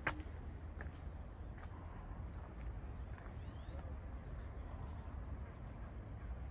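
Garden birds calling in short, scattered chirps and brief song phrases over a steady low rumble, with one sharp click right at the start.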